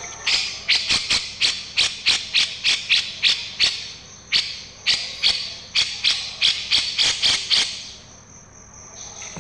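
Masteran tutor recording for songbirds: sharp high chirps repeated about three times a second over a steady thin high trill, breaking off near the end.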